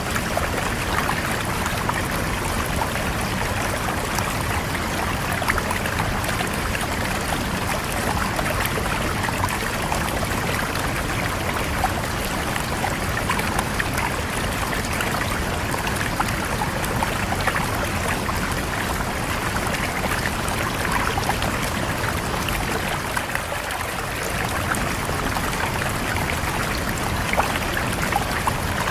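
River water flowing steadily over rocks, a continuous rushing and trickling with small splashes and bubbling.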